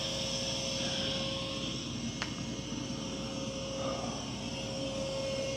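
Mova V50 robot vacuum running on carpet: a steady whir of its suction fan and brushes with a constant hum-like tone, and a single brief click about two seconds in.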